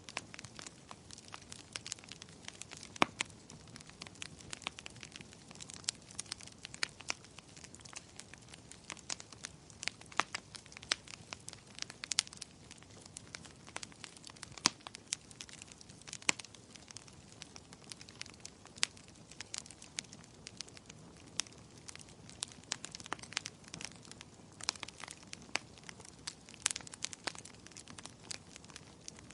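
Wood fire burning in a fireplace: steady irregular crackling and popping of the burning logs, many small snaps and a few louder pops, over a low hiss.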